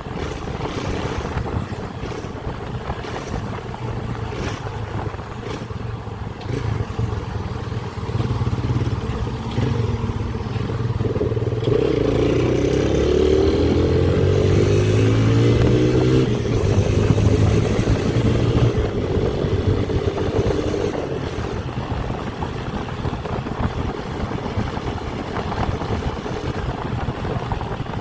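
Motorcycle engine running while riding, with wind noise. It gets louder for several seconds past the middle, with the engine pitch climbing as it accelerates, then settles back.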